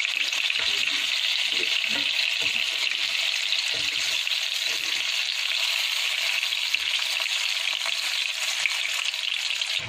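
Coated chicken leg pieces shallow-frying in oil in a non-stick pan over medium heat: a steady, even sizzle.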